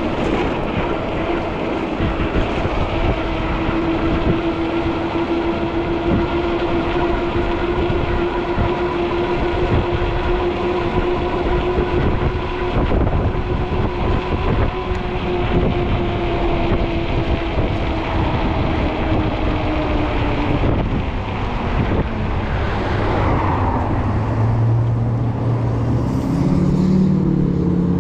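Wind rushing over the microphone and fat tires rolling on the road, with a steady electric-motor whine from the e-bike that sags a little in pitch and stops about 21 seconds in. In the last few seconds a low engine drone of a passing motor vehicle rises.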